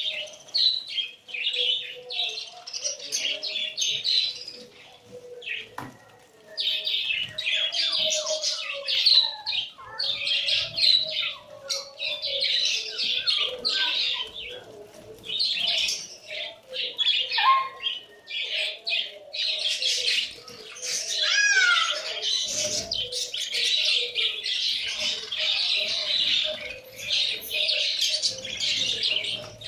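A flock of small parrots, love birds, chattering with shrill, overlapping chirps almost without pause, dipping briefly a couple of times.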